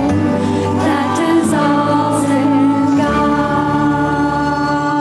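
A choir singing a song with instrumental accompaniment, holding long sustained notes over a changing bass line.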